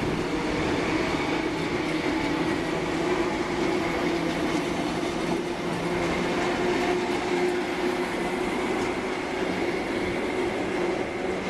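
Train standing at a station platform, running steadily: an even hum with a fainter high whine.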